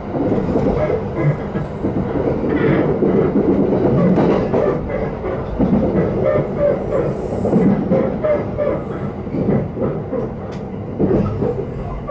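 Interior of a JR East Takasaki Line electric train running at speed: a steady rumble of wheels on rail and the car body, with scattered clicks of the wheels over the track.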